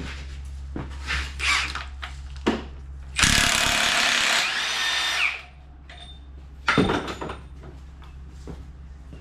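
Power impact wrench runs in one burst of about two seconds, working on the 24 mm wheel fastener, with knocks of tools being handled before it and a sharp metal clank a little after.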